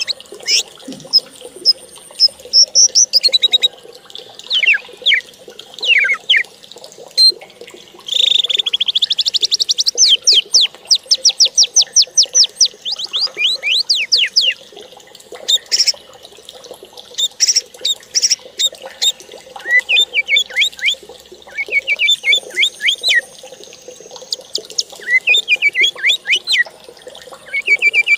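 Songbird singing: varied chirps and whistled notes, with a long, fast trill of repeated notes about a third of the way in.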